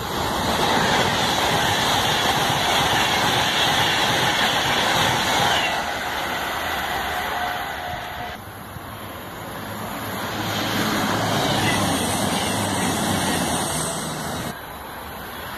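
Express passenger trains rushing through a station at speed, mostly a loud rush of wheels on rail and air: a Class 390 Pendolino passes close by in the first half, then another train approaches and passes. The sound changes abruptly twice at edits.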